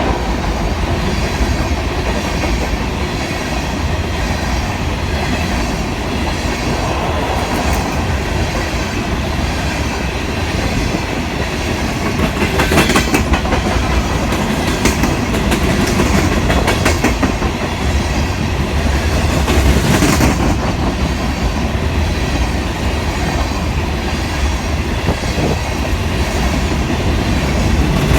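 A loaded Union Pacific freight train rolling past at close range: a steady heavy rumble with wheels clicking irregularly over rail joints.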